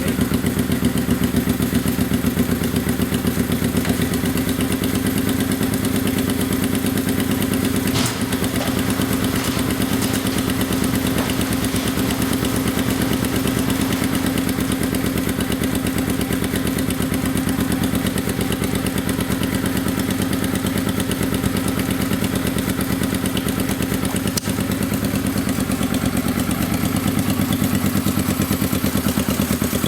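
1971 Honda SL350's air-cooled parallel-twin engine running steadily at idle, warming up from cold on its first start after a rebuild.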